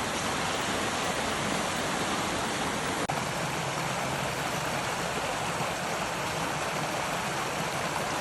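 Steady rush of flowing water, a stream or waterfall, with a single faint click about three seconds in.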